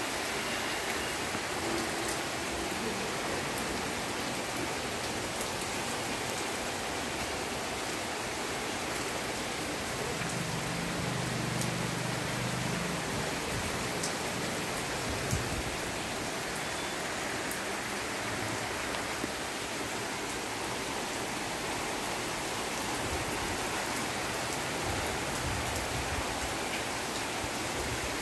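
Heavy rain falling steadily, an even, constant hiss.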